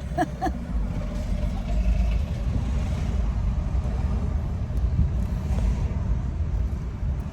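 Car road and engine noise heard from inside the cabin while driving: a steady low rumble.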